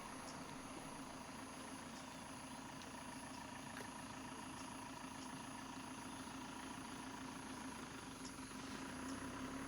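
Faint, steady hum of a vehicle engine idling, with a lower rumble growing louder near the end.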